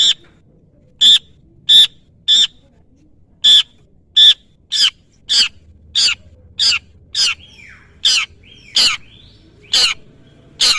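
Long-tailed shrike (cendet) giving a long series of short, harsh, scolding calls, one roughly every half to two-thirds of a second. A few fainter sliding notes come in between the calls just past the middle.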